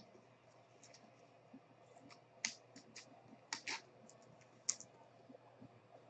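Faint, scattered clicks and scrapes of trading cards being handled and slid together, a few sharper clicks among them.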